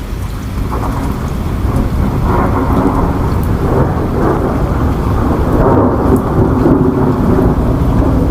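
Steady rain with a long, low roll of thunder that builds over the first few seconds and keeps rumbling.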